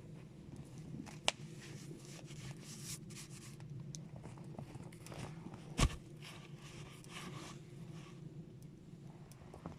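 Rustling and scraping of a person moving about and handling things, with a sharp click about a second in and a louder knock near the middle.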